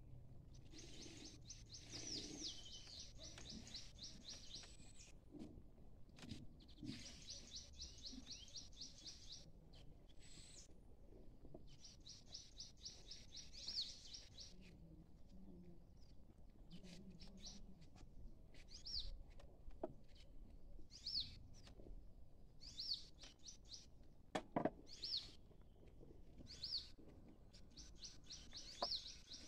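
Faint birdsong: three bursts of rapid high trilling, then a short high call repeated about every one and a half seconds. Scattered soft knocks and one sharper knock late on.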